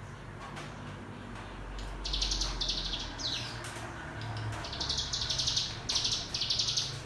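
Bar-winged prinia (ciblek gunung) song: a series of short, very rapid buzzing trills (the 'ngebren' trill), starting about two seconds in and repeated four or five times.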